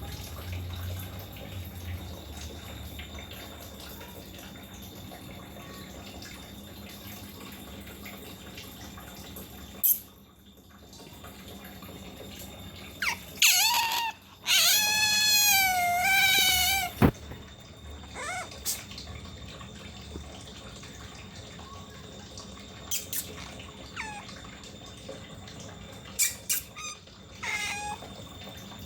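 Otter squeaking: a quick run of high, repeated chirping calls about halfway through, then a few short chirps near the end, over a steady hiss like running water.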